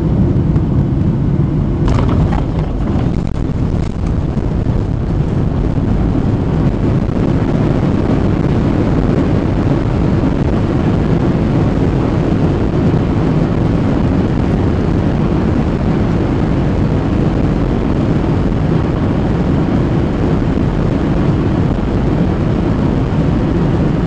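Jet airliner cabin noise: a steady roar of engines and airflow, with a brief rattling clatter about two seconds in.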